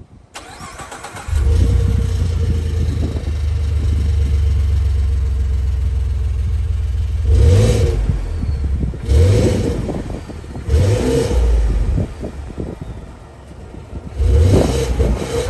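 Ford F150 3.5L EcoBoost twin-turbo V6 on its stock exhaust: it starts about a second in, runs at a steady idle, then is revved four times in short blips. The exhaust has a leak at a poorly welded resonator delete.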